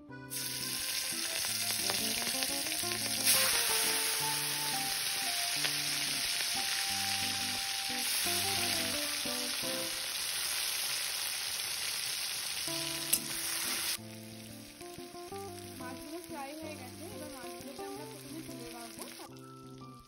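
Prawns frying in hot mustard oil in a kadai: a loud sizzle that starts just as they go in and drops sharply to a softer sizzle about fourteen seconds in. A couple of sharp clicks sound along the way.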